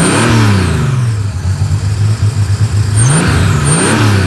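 Classic car's V8 engine idling, revved in short throttle blips: once at the start and twice more near the end, each rising and dropping back to idle.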